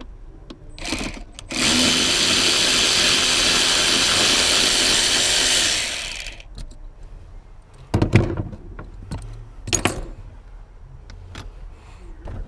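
Power drill running steadily for about four and a half seconds, backing out the T25 Torx bolt in the middle of the rear seat, then winding down. A few separate clunks follow.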